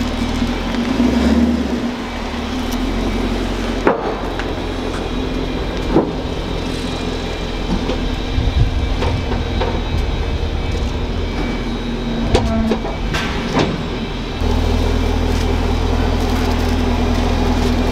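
Chevrolet Camaro SS's 6.2-litre V8 idling and creeping at low speed as the car is driven up the ramps onto a chassis dyno, with a few sharp knocks along the way. The idle gets louder and fuller about 14 seconds in.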